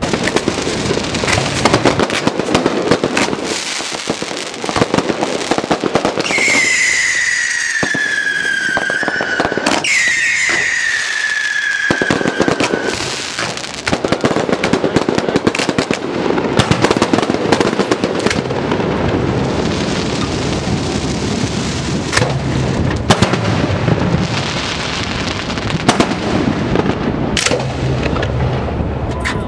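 Fireworks firing from their racks at close range: a rapid, continuous barrage of shots and crackling. Two long whistles falling in pitch come about six and ten seconds in.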